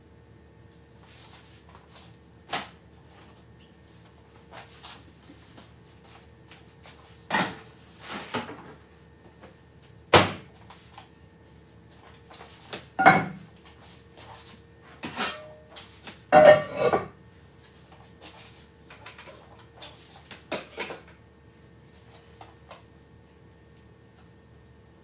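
Scattered knocks and clatters of things being handled and set down during kitchen work, with sharper bangs about ten, thirteen and sixteen seconds in, over a faint steady hum.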